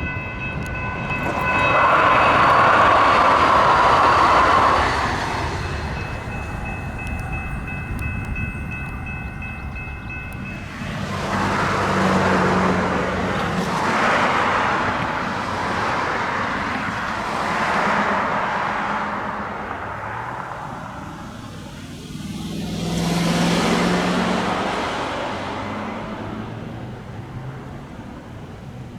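Light rail train running past, its noise swelling and fading several times as the cars go by. A steady high-pitched tone of several notes sounds through the first ten seconds, with a short break a few seconds in.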